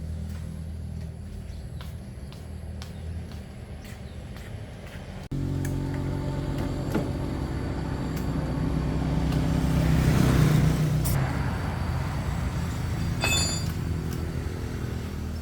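A small motorbike engine running steadily. The sound changes abruptly about five seconds in, then grows louder towards the middle before easing off.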